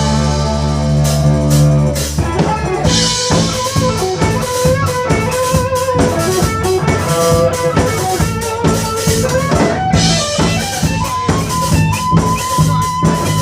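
Rock band playing an instrumental break, with drums, bass and guitar. A held chord rings for the first couple of seconds, then a lead guitar line plays over the steady drum beat.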